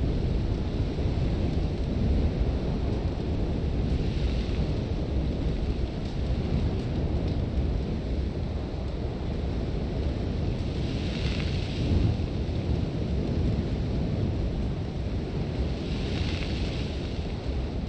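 Harsh sandstorm wind against a tent: a steady low rumble and buffeting, with a hiss of blown sand swelling up three times, a few seconds apart.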